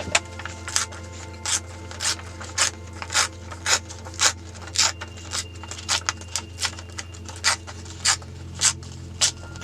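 Drawing strokes on journal paper: short scratchy rubs, roughly two a second, over soft background music.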